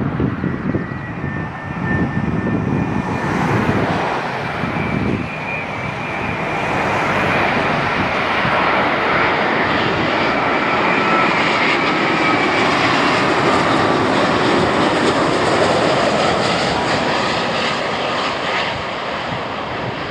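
Jet engines of a Boeing 787-9 airliner on arrival: a loud, steady rush with a faint high whine. The sound builds over the first several seconds and then holds, and the whine drops slightly in pitch about halfway through.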